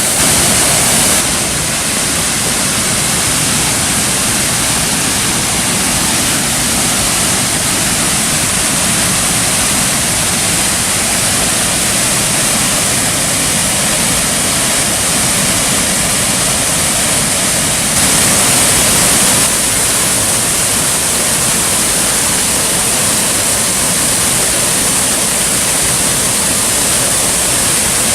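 Jagala waterfall, a broad river falls, pouring in a steady, loud rush of falling water, a little louder twice for a second or so.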